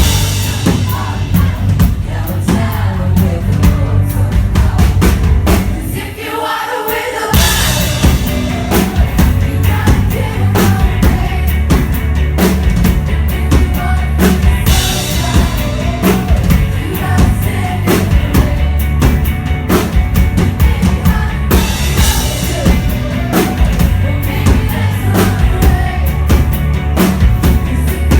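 Live performance of a pop song: a singer over loud music with a steady drum beat. About six seconds in, the low end drops out briefly before the full beat comes back.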